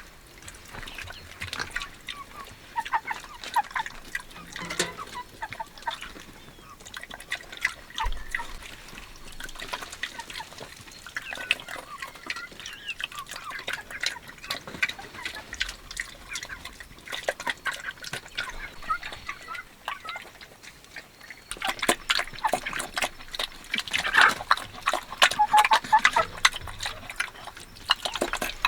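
Chickens clucking with many small quick clicks and taps, getting busier and louder about three quarters of the way through.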